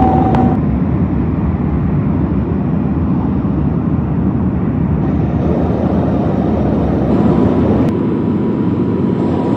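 Airplane at takeoff, its engines making a loud, steady rumble, with a faint thin whine joining in about two-thirds of the way through.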